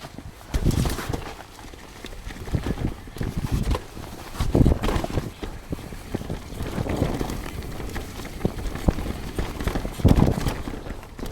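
Mountain bike clattering and knocking as it rides down a rough trail, tyres hitting roots and rocks in an uneven run of impacts. There are heavier jolts about half a second in, about halfway, and near the end.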